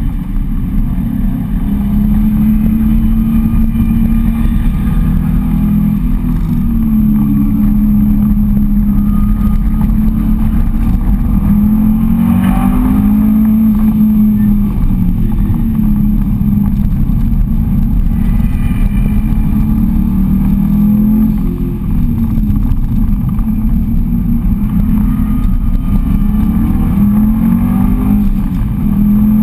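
Subaru Impreza wagon's flat-four boxer engine heard from inside the cabin while being driven hard on a race circuit, its pitch repeatedly rising and falling with throttle and gear changes, over a steady rumble of tyre and road noise.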